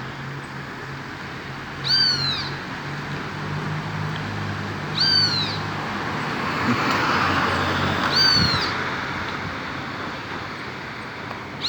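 Toucan calling: a short, arched call with a rising-then-falling pitch, repeated four times about three seconds apart. A faint low hum runs under the first half.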